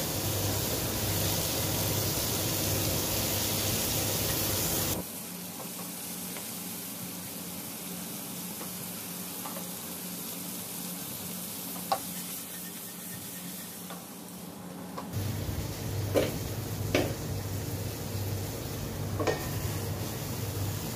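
Whole shrimp frying in garlic butter in a nonstick pan, sizzling while stirred with a spatula. About five seconds in, the sizzle drops abruptly to a softer level, with a single sharp knock later. About fifteen seconds in, a low steady hum sets in with a few light knocks.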